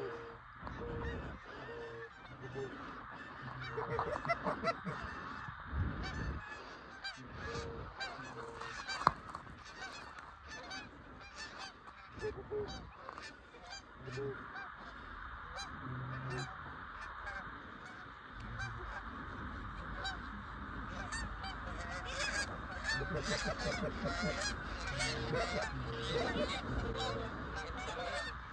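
Canada goose honks and clucks, many overlapping, in a continuous chatter that grows busier over the last several seconds.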